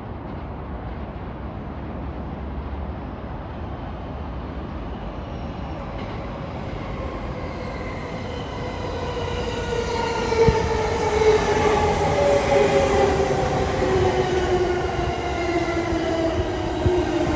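209 series electric train pulling into a station platform, its running noise growing louder. From about halfway in, its motors give a whine of several tones falling steadily in pitch as the train slows, with a couple of sharp knocks.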